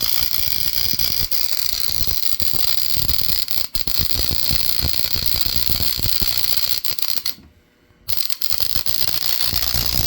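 High-voltage spark gap fed by a transformer, discharging in a continuous rapid crackle and buzz. It cuts out abruptly for about half a second about three quarters of the way through, then starts again.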